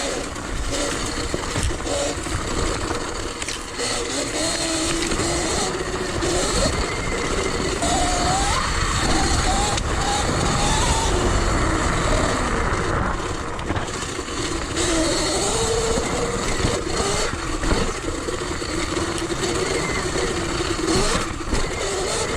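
Sur Ron electric dirt bike being ridden: wind rumbles on the microphone, and a whine from the electric drive rises and falls in pitch with speed.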